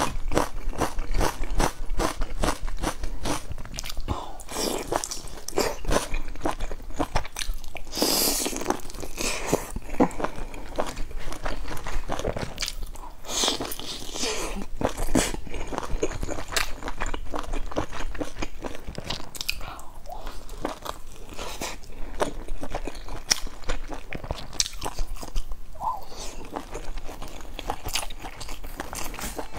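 Close-up mouth sounds of a person biting and chewing pan-fried buns with crisp browned bottoms, full of wet mouth clicks. There are a few louder crunching bursts, about eight and again about thirteen seconds in.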